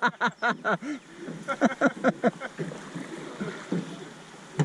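A person laughing in quick rhythmic bursts, in two runs during the first half. After that there is lower-level water noise from the canoe, and one short knock near the end.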